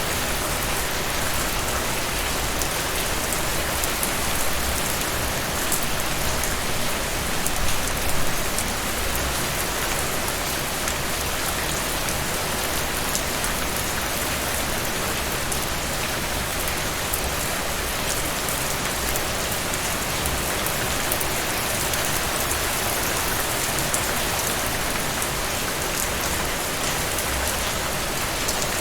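Steady rain falling: an even hiss dotted with many small drop ticks, swelling briefly a little louder about eight seconds in.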